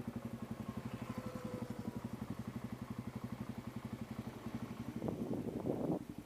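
Dirt bike engine idling with an even, rapid exhaust pulse, growing louder and rougher about five seconds in.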